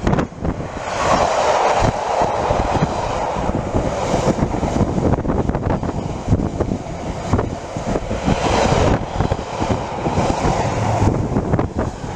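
A train running past on the line: a loud, continuous running noise with a low rumble that swells twice. Wind buffets the microphone.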